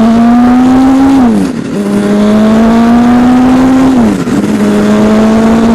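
Honda CBR1000RR Fireblade's inline-four engine pulling hard under acceleration, its pitch climbing steadily and then dropping sharply at two upshifts, about a second in and about four seconds in, before holding steady; wind rushes over the microphone throughout.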